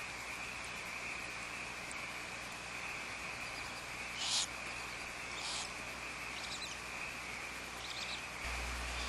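Barn owls in the nest box giving several short hissing screeches, the loudest about four seconds in, over a steady high chirring of crickets.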